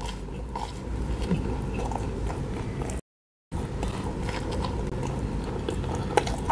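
Close-miked biting and chewing of a slice of durian cheese pizza: soft mouth sounds with small clicks. The sound drops out completely for about half a second, three seconds in.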